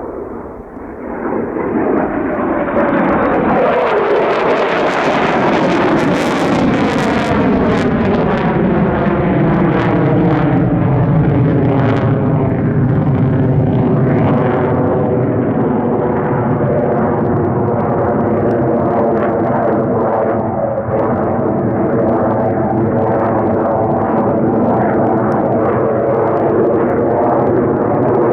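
Lockheed Martin F-35A Lightning II fighter jet passing by under power, its single Pratt & Whitney F135 turbofan loud and sustained after building up over the first couple of seconds, with a crackling edge early on and a sweeping whoosh as it moves past.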